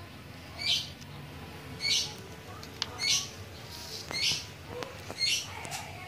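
A bird repeating a short, high-pitched chirp about once a second.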